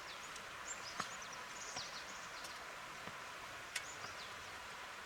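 Small birds chirping over and over in short, high notes that slide downward, over a steady background hiss, with two sharp clicks, about one second in and near the four-second mark.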